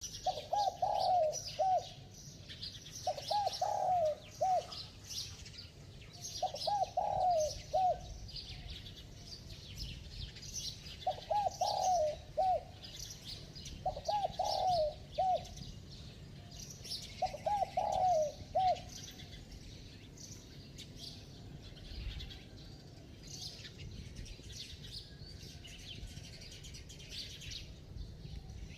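Spotted dove cooing: six short multi-note coo phrases a few seconds apart, stopping after about nineteen seconds. Small birds chirp and twitter throughout.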